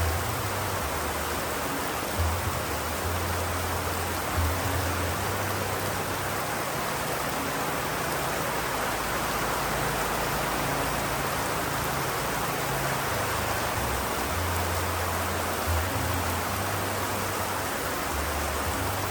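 Steady rain hiss with no breaks, joined by a low rumble that comes and goes several times.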